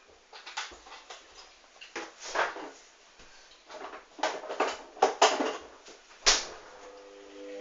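Hoover DYN 8144 D front-loading washing machine tumbling a wash: irregular swishes and knocks as the laundry turns and drops in the drum. The sharpest knock comes about six seconds in.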